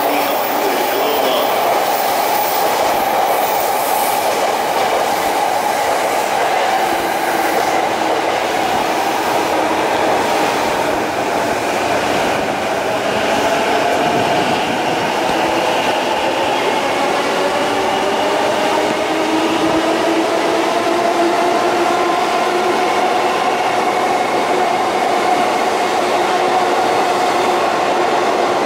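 JR East E235 series electric train slowing as it pulls into the platform, its wheels clacking over the rail joints. In the second half a motor whine glides in pitch.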